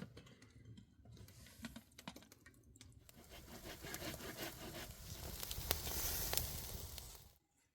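Dense rustling and crackling made up of many small clicks, building up over a few seconds and stopping abruptly near the end.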